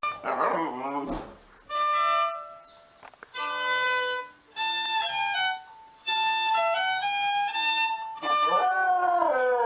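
Violin playing a series of held notes. Gliding, voice-like pitched sounds come at the start and again near the end, falling in pitch.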